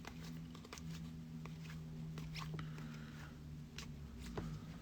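Trading cards being handled and sorted by hand: faint scattered clicks and soft rustles of card stock, over a low steady hum.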